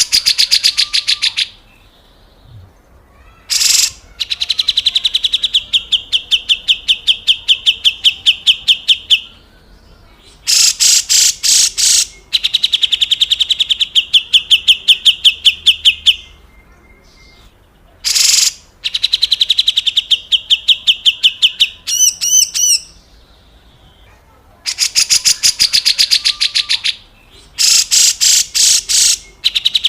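Grey-cheeked bulbul (cucak jenggot) giving its harsh rattling call, called besetan kasar. It comes as fast chains of about ten rasping strokes a second, each phrase lasting a few seconds and sliding slightly lower in pitch, with short pauses between.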